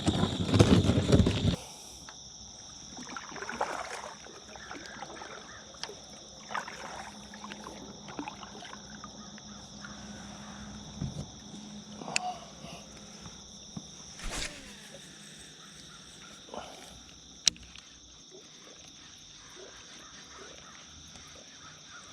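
Steady chorus of insects at two high pitches. It opens with a loud rushing burst in the first second and a half, and scattered knocks and clicks follow, one sharp click about 17 seconds in.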